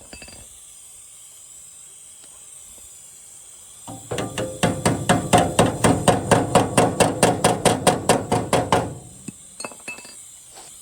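Rapid hammer blows on metal, about five a second, starting about four seconds in and stopping about five seconds later.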